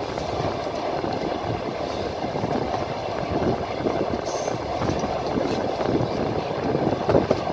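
A train running along the track: a steady rumble of wheels on rails.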